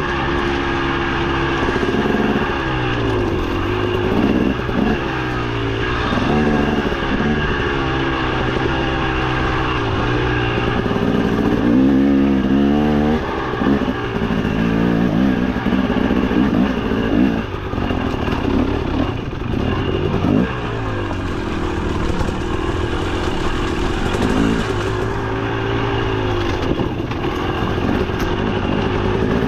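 KTM 300 XC TBI two-stroke dirt bike engine being ridden, its revs rising and falling again and again as the throttle is worked over the trail.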